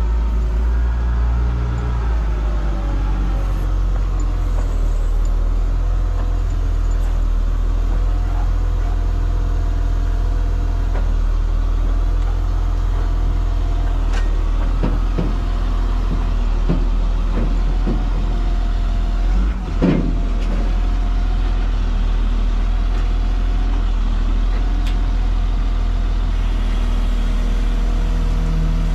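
Semi truck's diesel engine running, a steady low rumble, with a few short knocks around the middle.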